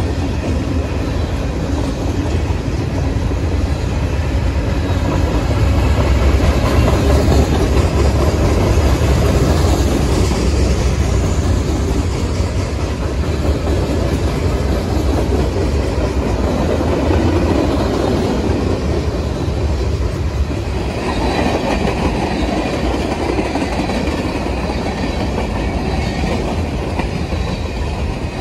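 Pan Am Railways mixed freight train's cars (flatcars, boxcars, covered hoppers and tank cars) rolling past close by, steel wheels on the rails making a steady, loud rolling noise.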